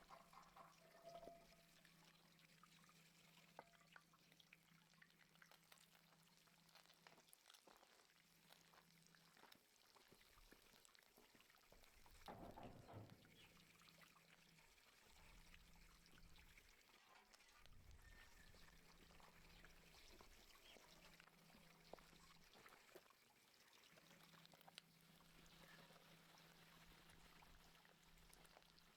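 Near silence: faint scattered ticks over a low steady hum that drops out now and then, with one brief louder sound about twelve seconds in.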